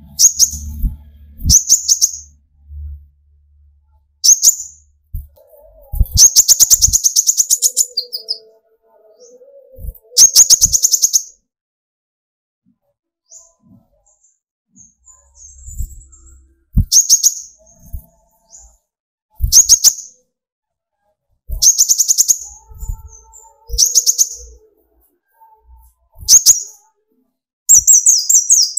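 Konin (kolibri ninja) sunbird singing its rapid, high-pitched 'tembakan' song: short sharp chattering trills repeated every second or two, a few of them drawn out into longer rattling runs. This is the excited, aggressive song that keepers play to rouse other konin into singing.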